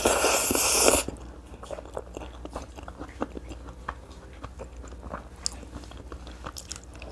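Close-miked chewing of tough, fire-dried sukuti meat, heard as many small irregular crunching clicks. A louder, hissing crunch fills the first second.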